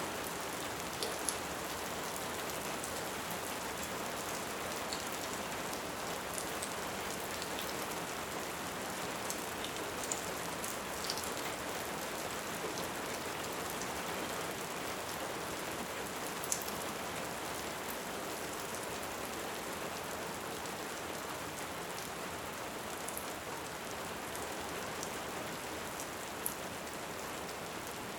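Steady heavy rain falling, with a crackling wood fire adding a few sharp pops scattered through it.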